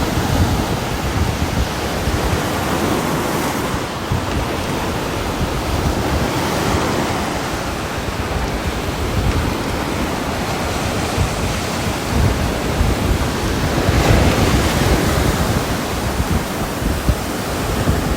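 Heavy, steady rain: a dense hiss and patter that swells a little louder for a moment about two-thirds of the way through. No bee buzzing stands out.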